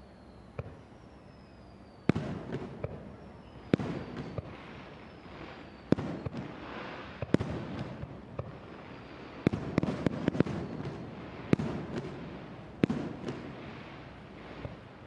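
Aerial fireworks shells bursting with sharp bangs, about ten in all and bunched closer together past the middle, each followed by a crackling, rumbling tail; a few faint falling whistles sound early on.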